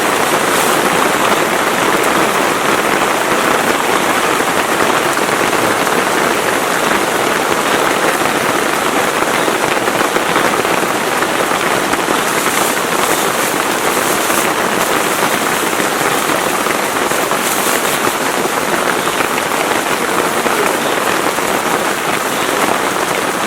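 Heavy rain falling steadily, a dense, even hiss of drops, with a few brief sharper spatters about halfway through.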